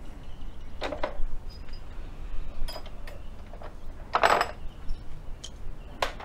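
Small objects being handled by hand: a handful of short, separate light clinks and knocks, with a longer scraping sound just past four seconds in.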